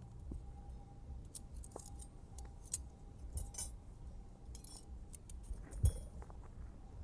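Scattered light clinks and clicks, like small hard objects being handled, with a single dull thump about six seconds in.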